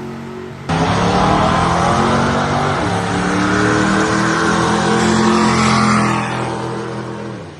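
A car engine at full throttle, accelerating hard: it comes in suddenly and loud, its pitch climbs, then it fades away near the end.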